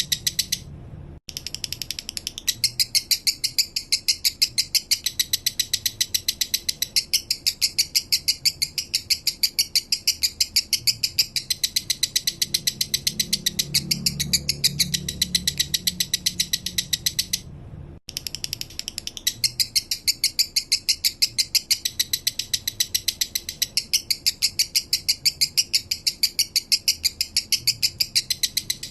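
Male lovebird singing a fast, steady string of high, rattling chirps, with two brief breaks, about a second in and again around eighteen seconds in.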